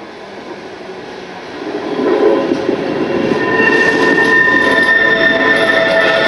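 Tram wheels squealing on the tight curve of a turning loop as a tram approaches, the running noise growing louder from about a second and a half in. From about halfway, several steady high squeal tones set in and hold.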